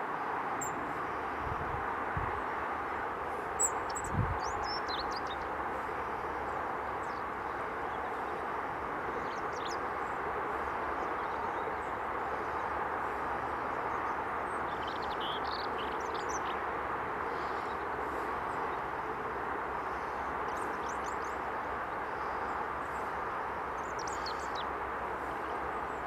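Steady outdoor background noise with no clear rhythm, with a few faint, brief high chirps now and then and a couple of low thumps in the first few seconds.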